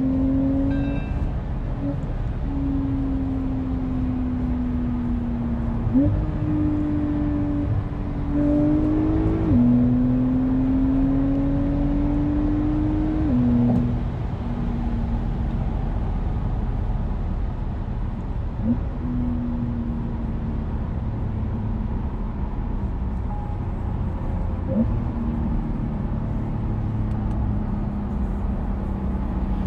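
Porsche 992-based Keyvany GTR's flat-six engine running while driving, its note easing down slowly and stepping up sharply several times as gears change. About ten seconds in it climbs steadily for a few seconds, then drops back at a gear change.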